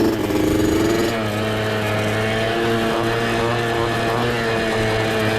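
Off-road mini bike engine running under way, its pitch dropping about a second in and then holding steady.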